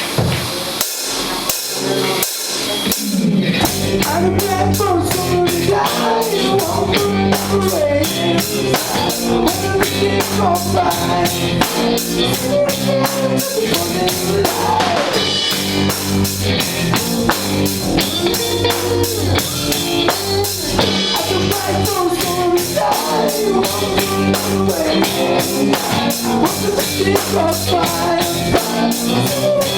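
Live rock band playing: drum kit, electric guitar and bass. A few separate drum strokes open it, then the full band comes in with a fast, steady beat about three seconds in.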